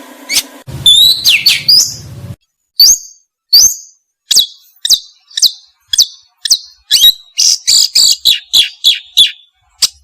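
A caged songbird giving a string of short, sharp, loud chirping calls, about two a second, coming faster for a while near the end.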